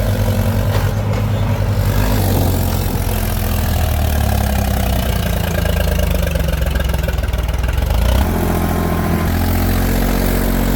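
Diesel engine of heavy farm or earthmoving machinery running steadily. Its pitch shifts as the engine speed changes, about two seconds in and again near eight seconds.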